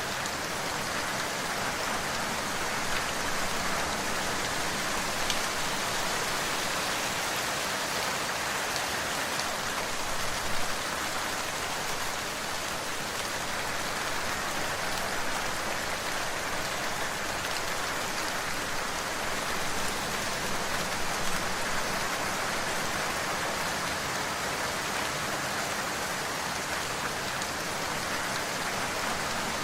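Steady rain falling on a surface, an even hiss with occasional louder drops.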